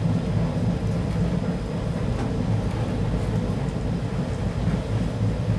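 Steady rumble of a moving passenger train heard from inside a coach: wheels running on the rails, with a constant low drone underneath.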